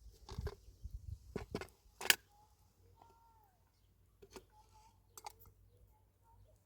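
A series of short, sharp clicks and knocks, several close together in the first two seconds with the loudest about two seconds in, then two more spaced out later. Faint high chirps sound in the background.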